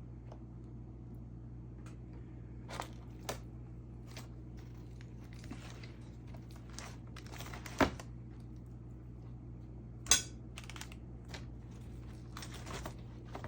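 Kitchen handling sounds as food is portioned into meal-prep containers: scattered light taps and rustling over a steady low hum, with two sharper knocks about eight and ten seconds in.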